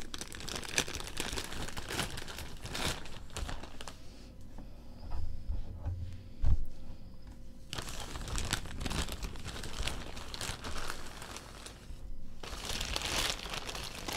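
A mailing bag crinkling and rustling as it is handled and searched, with a quieter spell and a few dull thumps midway.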